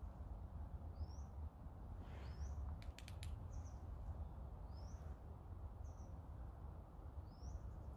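A small bird giving short, high chirps about once a second, some rising quickly in pitch, over a low steady rumble, with a few quick clicks about three seconds in.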